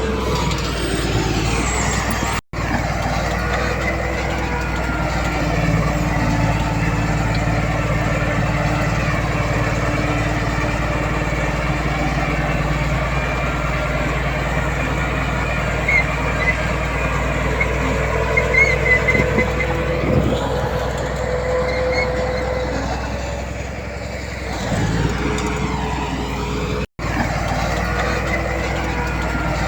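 Heavy diesel earthmoving machinery, a bulldozer and dump trucks, running steadily under load, with a few short high squeaks around the middle.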